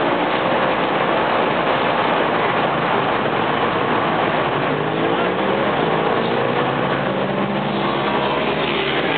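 Racing motorcycle engines running amid a loud, steady din, with one engine rising in pitch about five seconds in.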